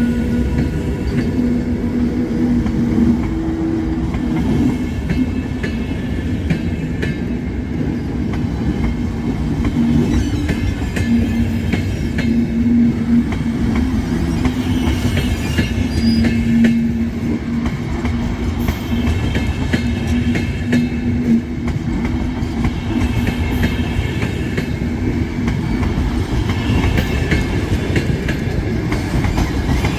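Double-decker sleeper train running along the track: a loud, steady rumble of wheels and carriage, with a low hum that comes and goes.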